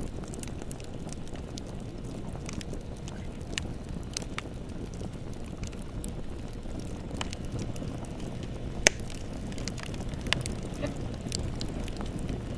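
Bonfire burning: a steady low rumble of flames with scattered sharp crackles and pops, the loudest about nine seconds in.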